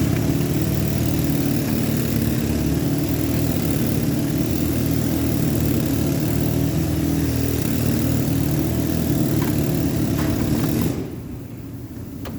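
Electric arc welding: a steady hum with crackling hiss that starts abruptly as the arc is struck and cuts off about eleven seconds in when the bead is finished.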